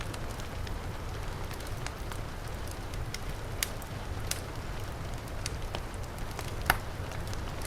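Wood fire crackling with scattered sharp pops, the loudest about two thirds of the way through, over the steady hiss and low rumble of heavy rain.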